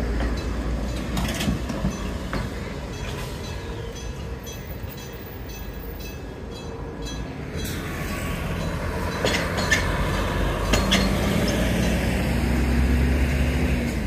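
Enoden electric train running through a sharp street-level curve, its wheels rumbling with scattered clicks that fade over the first few seconds. From about eight seconds in a route bus pulls across the junction, and its engine noise grows into a steady low hum over the last few seconds.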